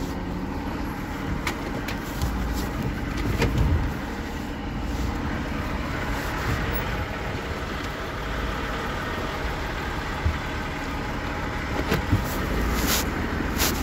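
Steady low rumble of a motor vehicle running, with the rubbing and occasional sharp knocks of a covered phone microphone being handled, several knocks coming close together near the end.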